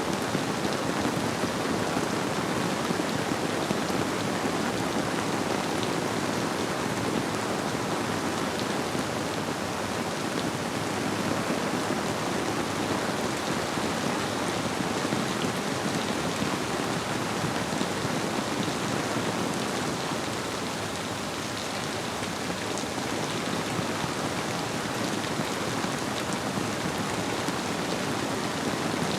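Steady rainfall pattering on surfaces, an even unbroken hiss with no thunder or other events.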